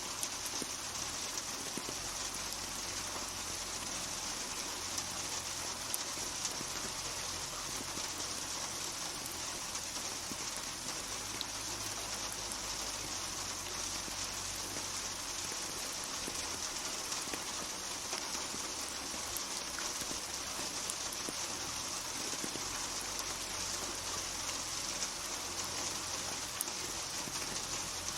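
Steady rainfall: an even, unbroken hiss of rain hitting a surface.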